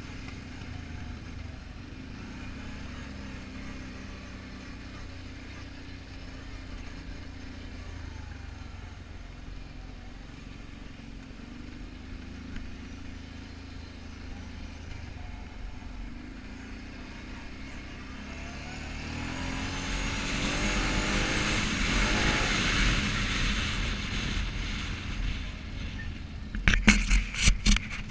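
Quad bike engine running steadily. About two-thirds through it gets louder with rising revs. Near the end comes a rapid cluster of loud knocks.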